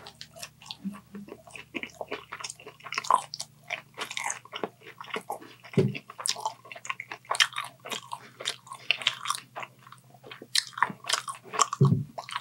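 A man chewing a mouthful of fried chicken and noodles close to the microphone, with many irregular wet, smacking mouth clicks. Two short low thumps, about six seconds apart, come through the chewing.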